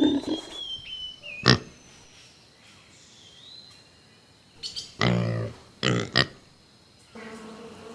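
Domestic pig grunting: a few grunts at the start, then a louder run of short grunts about five to six seconds in. A steady insect buzz, a bee's, starts near the end.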